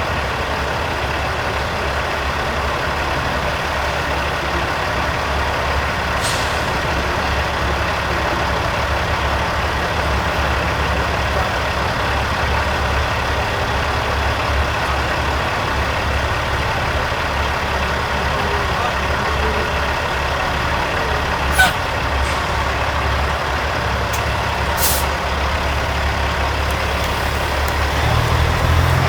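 Diesel engines of custom Peterbilt semi trucks running steadily at low speed, with short air-brake hisses about 6 s in, near 22 s and near 25 s; the one near 22 s is the loudest. The engine sound rises near the end.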